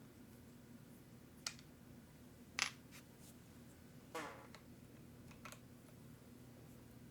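Small hard parts and tools being handled on a workbench: a few sharp clicks and taps, the loudest a little over two and a half seconds in, and a short metallic rattle about four seconds in, as of a small metal part set down or dropped.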